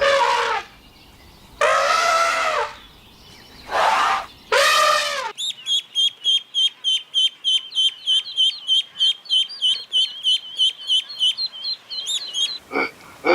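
A cat meowing four times, then a small bird chirping in a fast, even run of short high notes, about four chirps a second.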